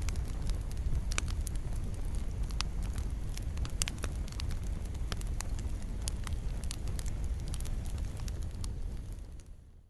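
Wood fire crackling: irregular sharp pops and snaps over a steady low rumble of flames, fading out near the end.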